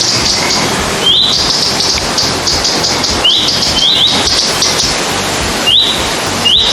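A songbird singing the same phrase again and again, every second or so: a short rising note that runs into a high buzzy trill. A steady hiss runs underneath.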